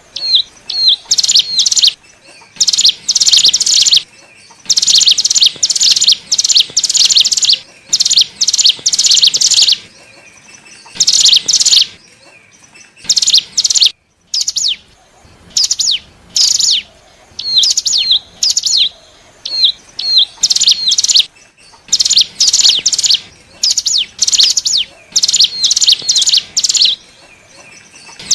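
Ciblek gunung (cigun), a prinia, singing loud, high, rapid trills in phrases of a second or two with short pauses between, mixed with short down-slurred chip notes. It is a lure call used to draw in wild birds of the same species.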